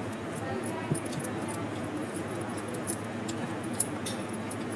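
Eating sounds: scattered small clicks and clinks, a few a second, over a steady background hum.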